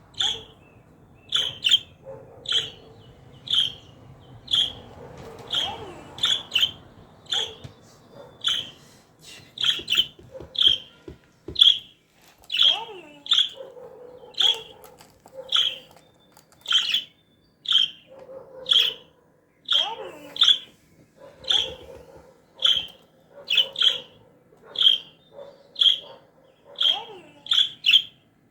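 Pet parrot giving short, sharp chirping calls over and over, roughly one every half to one second, with fainter lower whistling glides between them.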